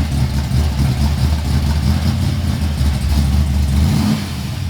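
Race car's engine rumbling loudly at low speed as it is manoeuvred into a parking spot, easing off slightly about four seconds in.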